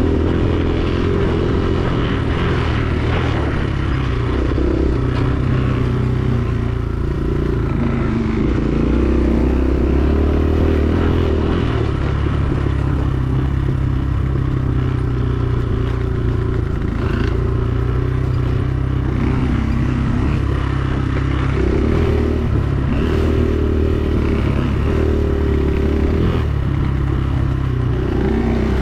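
Dirt bike engine running continuously while being ridden, its pitch stepping up and down as the throttle opens and closes and the gears change.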